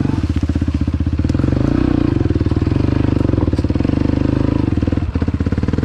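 Dirt bike engine running under throttle while riding, its note rising and falling. The sound briefly drops about five seconds in before it picks up again.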